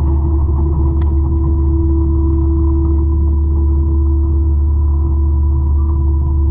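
A 200-horsepower forestry mulcher running steadily, its engine droning at a constant speed with a steady whine over it.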